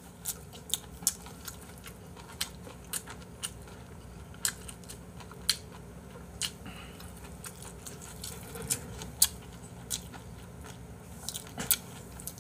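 A person chewing spicy stir-fried octopus and pork belly close to the microphone: irregular sharp crunches and mouth smacks, about one or two a second, some louder than others.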